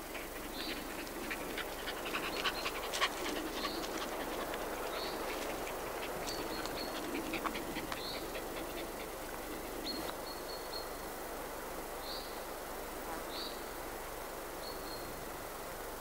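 A bird giving a short high call, repeated every second or two, over a steady rushing noise, with a patter of sharp clicks and crackles in the first few seconds.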